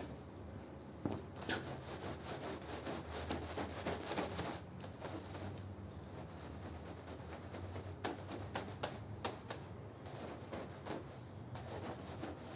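A carpet being scrubbed: irregular rubbing and scraping strokes over the pile, with a few sharper scratchy clicks.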